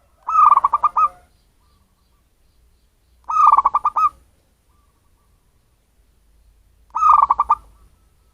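Zebra dove (perkutut) cooing: three quick phrases of rapid, staccato coos, each about a second long and a few seconds apart.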